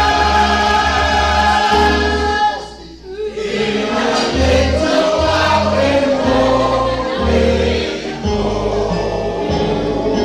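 Choir singing a gospel hymn in held notes over a sustained bass line, with a brief break between phrases about three seconds in.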